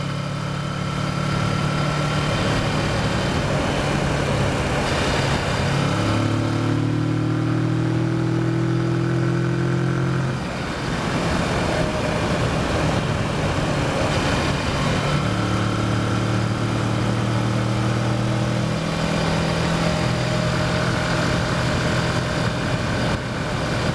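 Kawasaki Versys motorcycle engine running under way, its pitch stepping and gliding slightly as the throttle and speed change, over steady wind and road noise.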